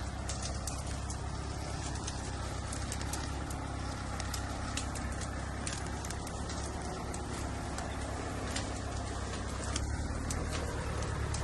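Small Japanese tractor's engine running steadily, with many sharp clicks and rattles over it.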